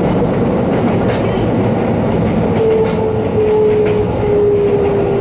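Kobe Electric Railway train running uphill on a steep mountain grade, heard from inside the car: a steady rumble of wheels and running gear. About halfway through a whining tone comes in and steps down in pitch a few times.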